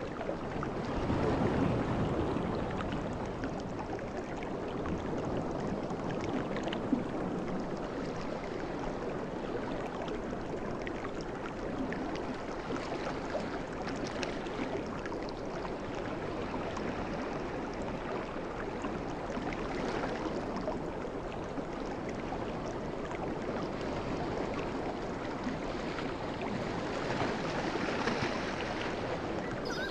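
Sea waves washing on a beach, a continuous rush that swells louder about a second in and again near the end. A brief sharp click sounds about seven seconds in.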